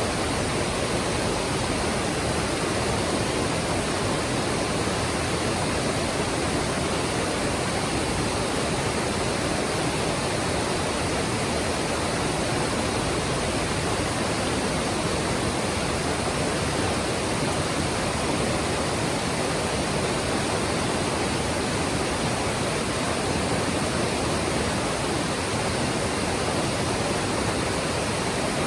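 Mountain stream water rushing and splashing over rocks, a steady, even flow.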